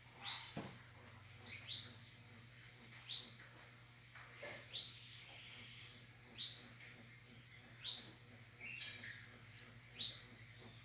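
A bird calling repeatedly, a short call about every second and a half, each one rising sharply and then held briefly at a high pitch.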